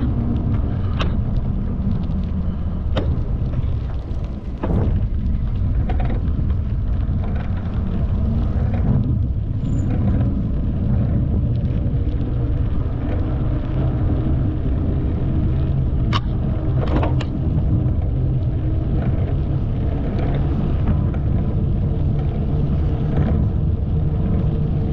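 Steady low rumble of riding a bicycle along a path, wind and tyre noise, with a few sharp clicks and knocks scattered through it.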